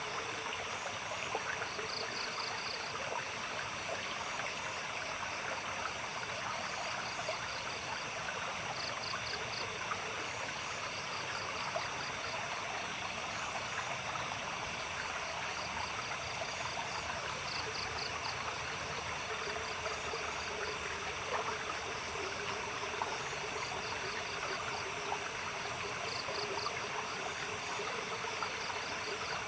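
Babbling water of a small stream running steadily, with night insects: a continuous high-pitched trill and short pulsed chirps every second or two.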